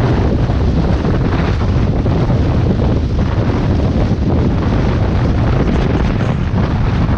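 Heavy wind rushing over the microphone of a motorcycle camera at riding speed, a steady loud roar that covers the engine.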